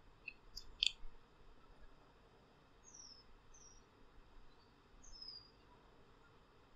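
Faint high-pitched chirps of a small bird over quiet room tone: a quick cluster of sharp chirps about a second in, then three or four short falling chirps.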